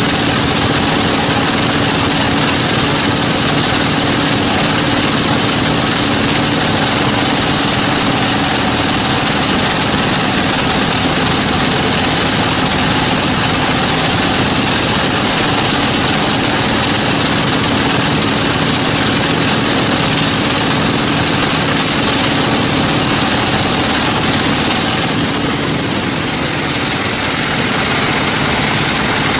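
Sawmill machinery running steadily with a constant engine-like drone and hum, easing slightly for a moment near the end.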